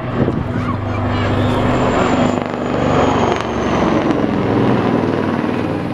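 Aircraft engine noise from an aircraft flying past: a loud rushing drone with a high whine that slowly falls in pitch. It swells toward the middle and eases off near the end.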